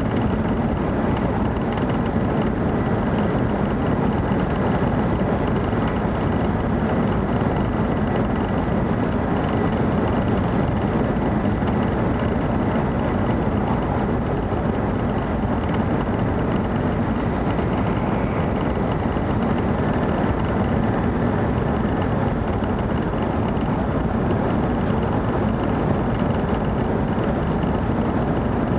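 Steady running noise inside the passenger cabin of a 700 series Shinkansen travelling at speed: an even rumble with a faint high tone held throughout.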